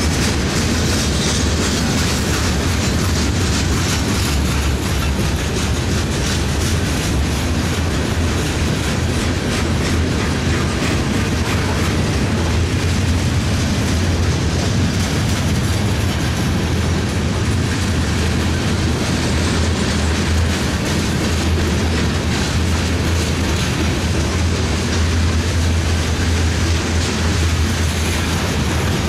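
A mixed freight train's boxcars, tank cars and covered hoppers rolling past close by: a steady rumble of steel wheels on rail with continuous clickety-clack.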